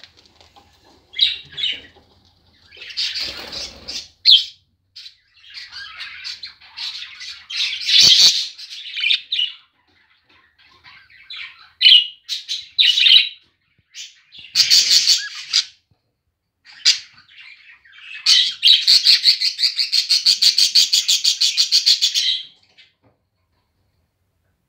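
Budgerigars chirping and warbling in short bouts, ending in a long rapid chatter of about four seconds near the end.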